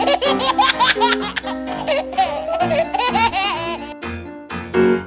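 High-pitched baby-like giggling laughter in quick repeated bursts, stopping about four seconds in, over light children's background music.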